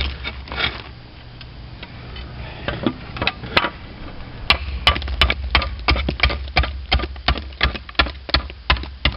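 Slater's hammer chopping the edge of a slate shingle to trim it: a few scattered blows, then from about halfway a quick, regular run of sharp strikes, about three a second.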